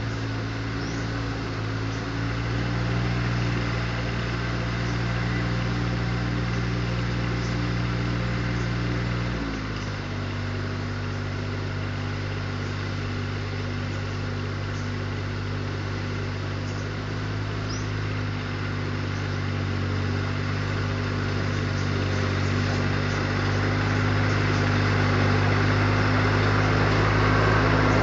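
Tractor mower engine running steadily. Its pitch drops a little about ten seconds in, and it grows louder toward the end.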